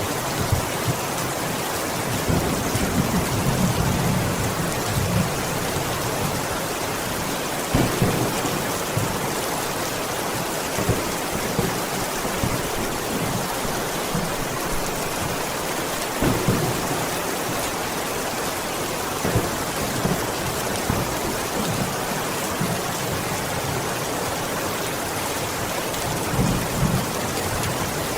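Steady rain falling in a dense, even hiss. Every few seconds a heavier drop lands with a short low knock.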